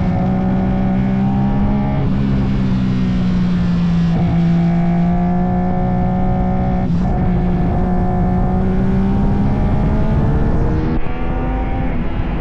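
Legend race car's Yamaha motorcycle engine running hard at fairly steady revs, with several brief breaks in the note as gears change.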